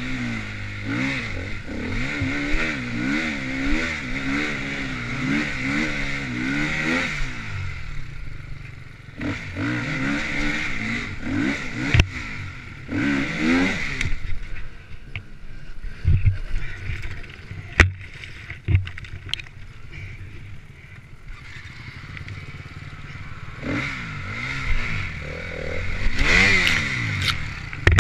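Off-road dirt bike engine revving up and down as the throttle is worked over rough ground, with quieter off-throttle stretches in between. Sharp knocks and clatter from the bike come twice in the middle.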